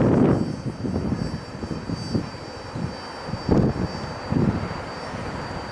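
Low rumble of a double-stack intermodal freight train rolling away and fading, loudest at the start and dropping off within the first half second, with brief gusts of wind on the microphone.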